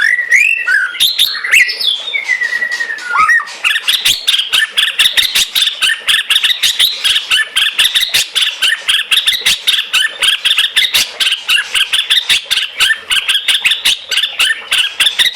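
A pet songbird singing: a few whistled, gliding notes, then from about three seconds in a fast, continuous run of chirps that lasts to the end.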